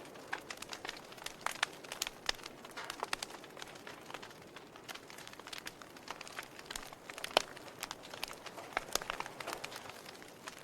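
Wood fire crackling: irregular sharp pops and snaps over a soft hiss, with one louder pop a little past the middle.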